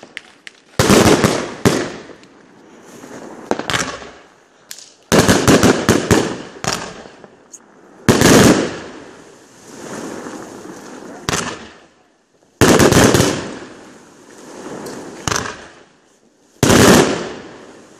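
Class 4 fireworks battery with 30 mm shells firing: five loud salvos of bangs and breaking shells, about one every three to four seconds, each trailing off into crackling.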